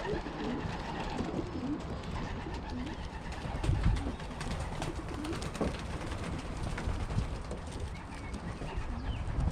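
Several racing pigeons cooing in short, repeated low calls.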